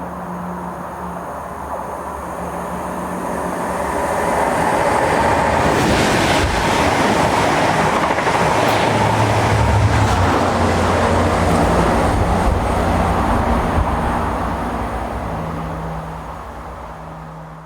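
Diesel locomotive-hauled passenger train of Mk3 coaches passing. The engine drone and wheel noise build over several seconds, stay loud through the middle and then fade.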